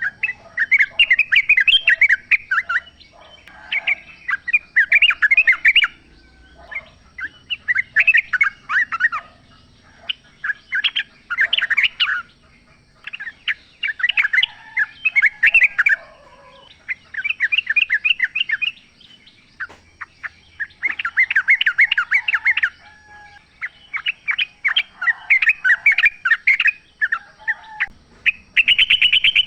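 Yellow-vented bulbuls (trucukan) singing: about a dozen short, rapid, bubbly chattering phrases of a second or two each, with brief pauses between them. Fainter, lower calls come in the gaps.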